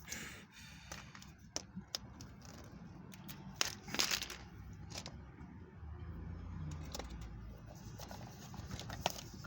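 Toy packaging being handled and torn open: crinkling and tearing of the wrapping with scattered small clicks, the loudest rustle about four seconds in. A low rumble rises under it in the second half.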